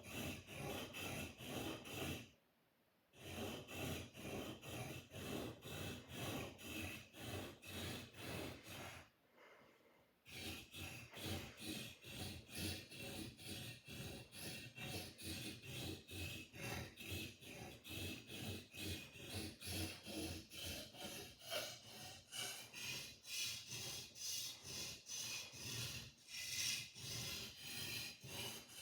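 Sword blade being sharpened: quick, even rasping strokes of steel against an abrasive, about three a second, with two brief pauses, one about two and a half seconds in and one about nine seconds in.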